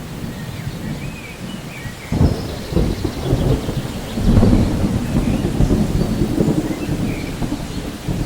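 Rolling thunder rumbling over steady rain, swelling sharply about two seconds in and loudest around the middle. Faint bird chirps sound now and then above it.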